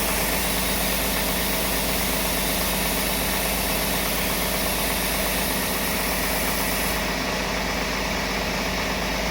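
1999 GMC Safari's 4.3 L Vortec V6 running steadily at idle, still cold shortly after a cold start in freezing weather after sitting unused.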